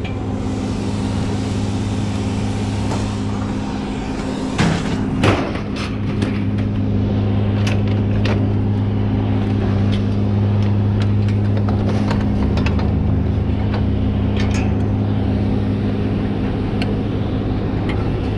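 Vehicle engine idling steadily, with scattered clicks and knocks, two of them sharper about five seconds in.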